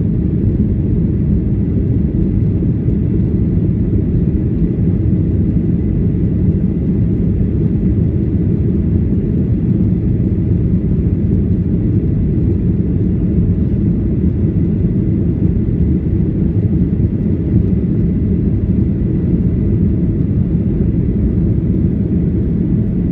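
Boeing 737-800 in flight, heard inside the cabin: the steady rumble of its CFM56-7B turbofans and the airflow over the fuselage, with a faint steady high whine above it.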